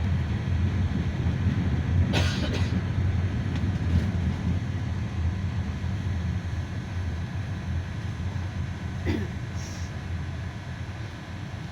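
Cabin noise of a GAZ Next minibus under way: a steady low rumble of engine and road. Two brief sharp sounds come about 2 s and 9 s in, and the rumble eases off toward the end.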